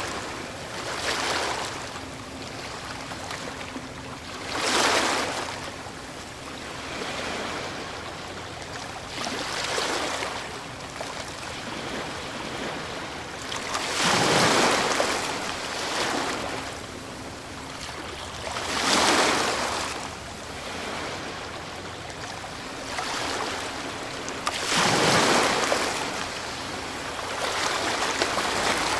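Ocean waves breaking, each surging up and washing back about every four to six seconds, with a steady hiss of surf between them.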